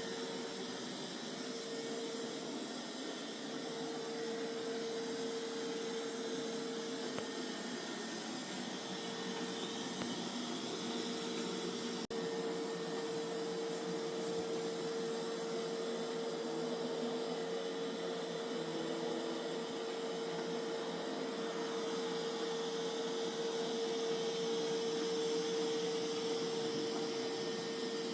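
Mova Z60 robot vacuum running with a steady suction-fan whoosh and a motor hum that breaks in and out during the first half, then holds steady.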